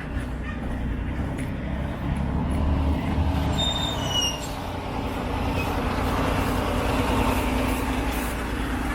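A motor vehicle passing, its noise swelling over the last few seconds over a steady low rumble. A few short, high chirps fall in pitch about three and a half seconds in.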